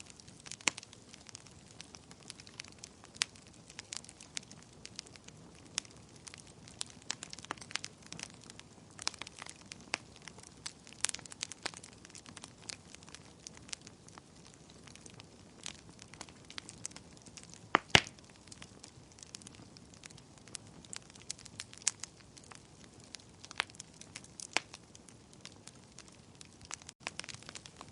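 Wood fire in a fireplace, logs crackling and popping at irregular moments over a soft steady hiss, with one louder pop about two-thirds of the way through.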